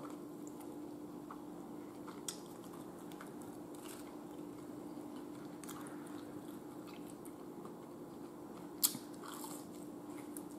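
Close-up chewing of fried chicken wings and fries, with a few crisp crunches and clicks, the sharpest about nine seconds in. A steady low hum runs underneath.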